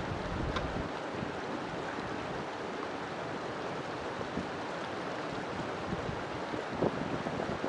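River water flowing: a steady rushing with fine bubbling texture, and a few louder splashes and gurgles near the end.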